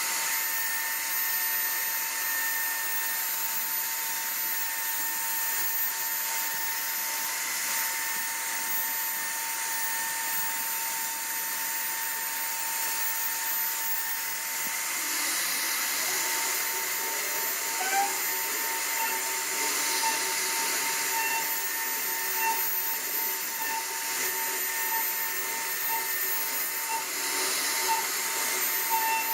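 CNC router spindle running and cutting wood: a steady high whine with a hiss of cutting. From about halfway the whine begins to pulse on and off.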